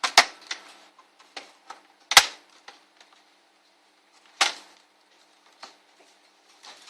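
Plastic snap-fit clips of an ASUS N53 laptop's top case clicking loose as the case is pried apart: sharp clicks, the three loudest about two seconds apart, with lighter ticks between.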